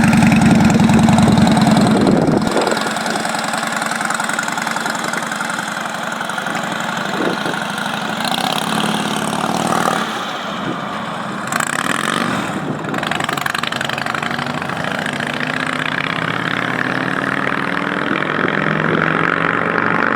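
1937 Indian Sport Scout's V-twin engine running with a deep, steady beat. About two seconds in the low rumble suddenly drops away, and the engine carries on thinner and quieter, its pitch shifting up and down near the end.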